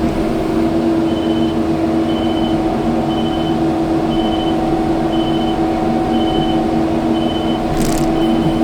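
Kubota skid steer's diesel engine running steadily while its reverse alarm beeps about once a second as the machine backs up. A brief rattling noise near the end.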